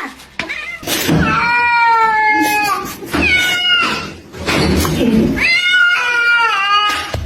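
Domestic cat yowling: three long, drawn-out calls, each sagging in pitch at its end, with short breaks between them.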